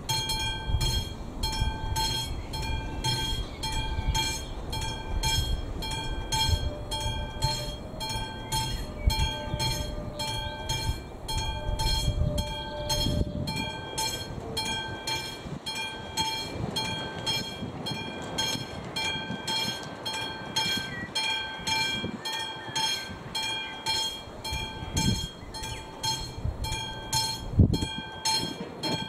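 Railway crossing's classic electromechanical warning bell ringing steadily, about two strikes a second, signalling that the crossing is closed for an approaching train. A low rumble lies beneath it, strongest in the first half.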